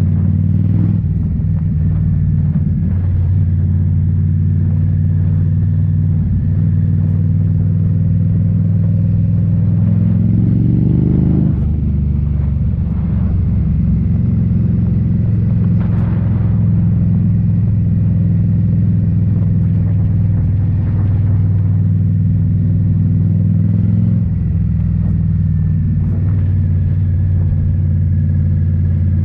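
2018 Indian Scout Bobber's V-twin engine running through Rinehart slip-on mufflers while riding, a steady deep exhaust note. Around ten seconds in the engine note climbs, then drops abruptly a second or so later.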